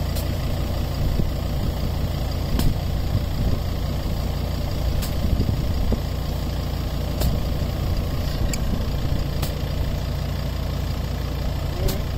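Ford Endeavour SUV's engine idling steadily while it sits stuck in sand, with a few short knocks and scrapes as a shovel digs sand away from the buried front wheel.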